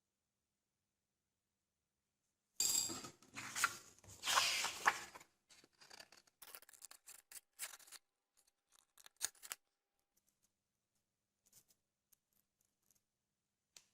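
Scissors cutting card stock, with paper handling noise. The sound begins a few seconds in with a dense stretch of cutting and rustling, then goes on as scattered single snips and small clicks.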